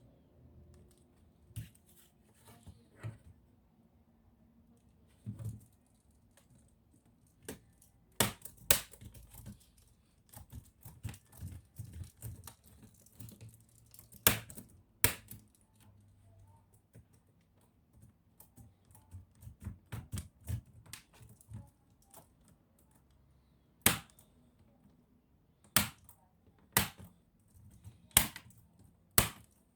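Scattered sharp clicks and taps of hands and tools working on a laptop's plastic case, in clusters with several louder single clicks near the end.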